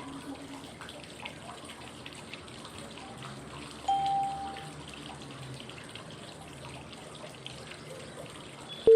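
Steady flowing-water white noise. A short cue tone sounds about four seconds in, and a louder, lower one sounds near the end, five seconds later, each marking the switch to the next five-second phase of a 555 breathing exercise (inhale, hold, exhale).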